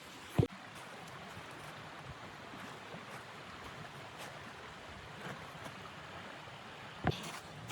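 Steady rushing wind noise, broken by two sharp knocks: one about half a second in and another near the end.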